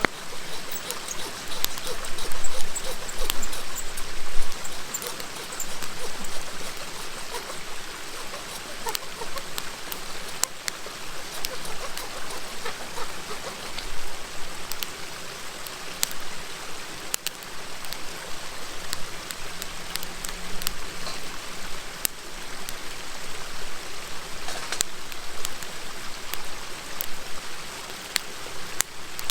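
Bonfire crackling with scattered sharp pops over the steady murmur of a river.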